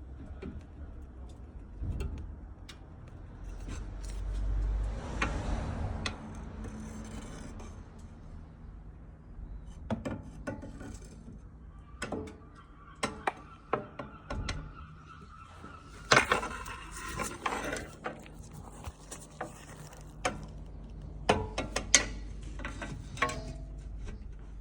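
Creaking from a Mercedes: a series of sharp clicks and knocks with drawn-out squeaky creaks, strongest between about twelve and eighteen seconds in. This is the common creaking noise being tracked down.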